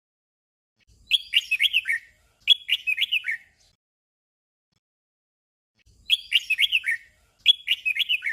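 Red-whiskered bulbul singing short whistled phrases of a few quick, falling notes. Each phrase comes twice in quick succession, the 'double' song, and the pair repeats after a pause of about two seconds.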